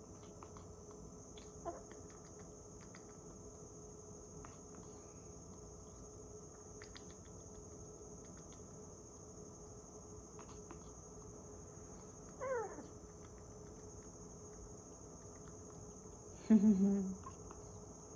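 Steady high-pitched insect-like chirring, with a soft click early, one falling whistle-like call about two-thirds of the way through, and a short, louder low vocal sound near the end.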